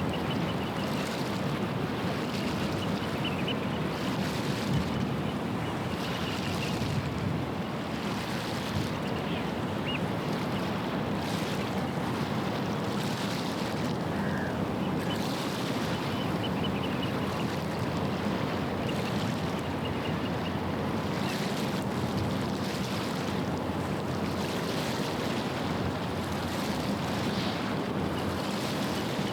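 Waves washing against the shore, with the steady low hum of a passing ship's engine underneath and wind on the microphone.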